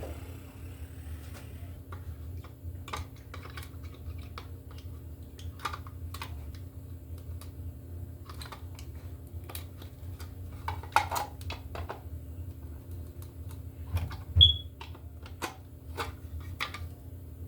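Scattered small clicks and taps of hand work on electrical wiring parts, with a louder knock about fourteen seconds in, over a steady low hum.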